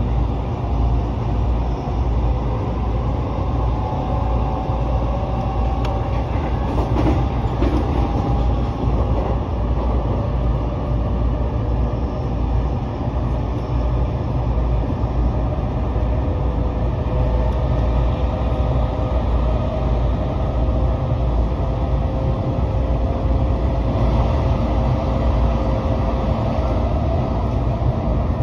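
JR Musashino Line commuter train running at speed, heard from inside the carriage: a steady rumble of wheels on the track with a faint humming tone held over it.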